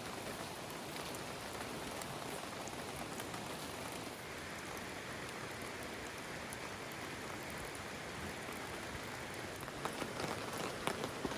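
Steady rain falling, a constant even hiss, with a run of sharp taps near the end.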